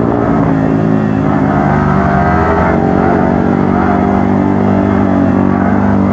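Motorcycle engine running continuously while riding, its pitch rising and falling slightly with the throttle.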